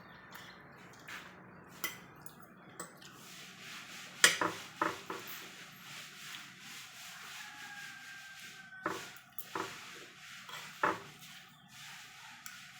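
Cutlery clinking and scraping against a plate during eating: a string of sharp, irregular clicks, the loudest about four seconds in.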